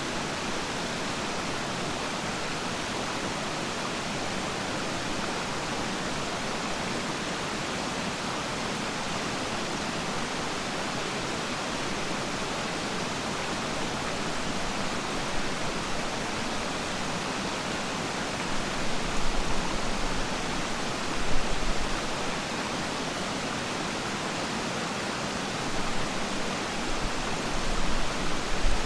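Steady rushing water of Peiran Falls and its stream, an even full hiss. Bouts of low rumble come in about two-thirds of the way through and again near the end.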